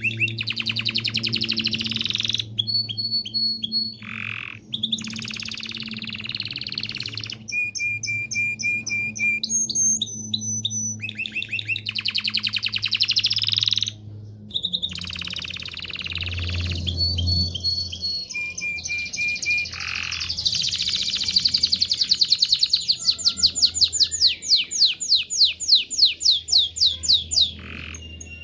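A canary singing its long, excited breeding-season song: a run of rapid trills alternating with held whistled notes, the phrase changing every second or two. It closes with a loud, fast pulsing trill near the end.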